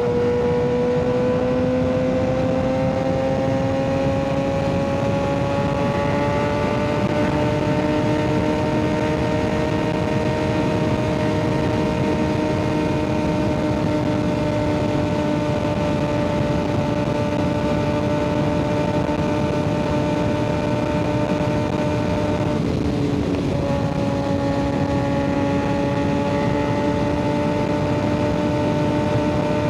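Kawasaki ZX-6R 636's inline-four engine through an M4 aftermarket exhaust, pulling steadily while riding. Its pitch climbs gently over the first several seconds, then holds steady. About 23 seconds in it briefly drops away, then carries on a little lower.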